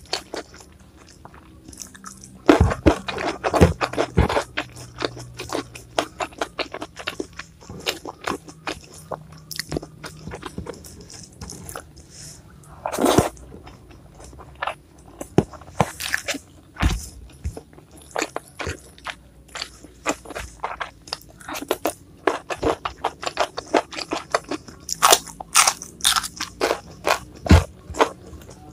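Close-miked eating: crisp crunching bites and chewing in an irregular run of sharp crunches, with wetter mouth sounds between them.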